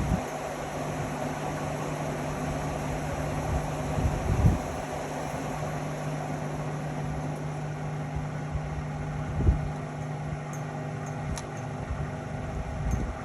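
Indesit Innex XWA 81252 washing machine running with a steady mechanical hum, with a few dull thumps about five seconds apart.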